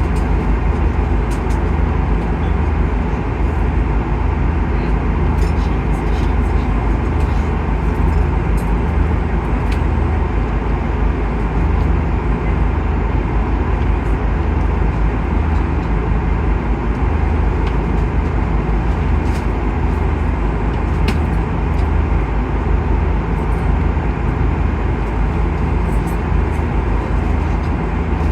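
Steady roar of engine and airflow noise inside an Airbus A330-200 cabin, heaviest in the low end, with a few faint clicks over it.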